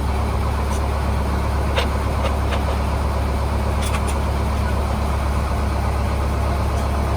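Engine idling with a steady low drone. A few faint clicks and taps sound over it.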